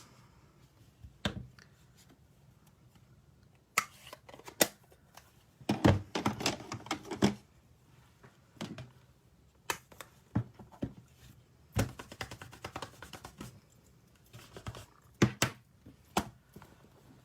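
Irregular taps, clicks and knocks of rubber-stamping supplies being handled on a craft table: a stamp block, ink pad and paper picked up, set down and pressed.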